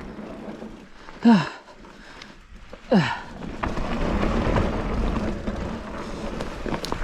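Mountain bike rolling along a dirt trail, with a low rumble of wind and tyre noise that grows in the second half. Two short vocal exclamations fall in pitch, one about a second in and one about three seconds in.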